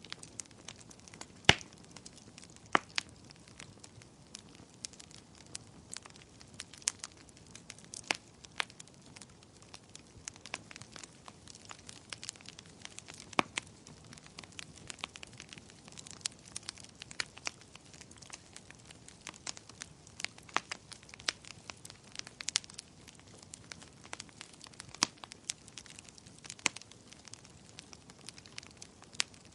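Wood fire burning in a fireplace: a steady low hiss with irregular crackles and sharp pops, the loudest pop about a second and a half in.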